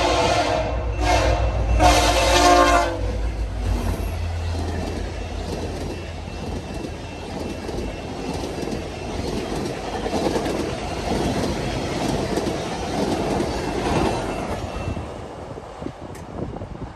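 VIA Rail F40PH locomotive's K3LL air horn sounding a grade-crossing signal: a long blast ends just after the start, then a short and a longer blast end about three seconds in. The locomotive's diesel engine passes, then the passenger cars' wheels rumble and clack over the rails, fading near the end.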